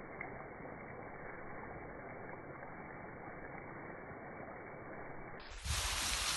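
Kavurma meat sizzling and crackling as it fries, a steady hiss. About five and a half seconds in, a louder rushing noise with a low rumble takes over.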